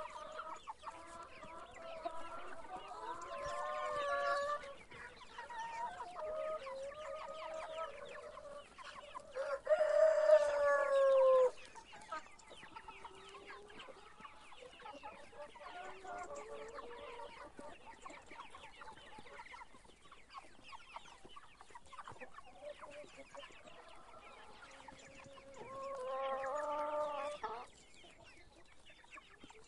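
Chickens clucking on and off, with a rooster crowing loudly about ten seconds in, a long call falling in pitch. A second burst of loud calls comes near the end.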